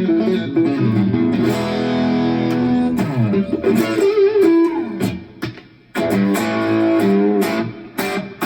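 1966 Fender Jazzmaster electric guitar played through a Matchless valve amp head and a Two Notes Torpedo Studio cabinet simulation with reverb: ringing chords and single notes, with notes sliding down about three seconds in and a wavering note just after. A short drop near the middle, then more chords.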